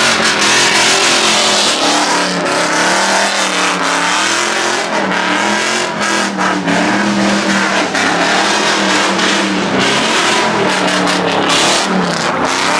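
A car engine revving hard and held at high revs, its pitch wavering up and down, under a loud, steady rushing noise.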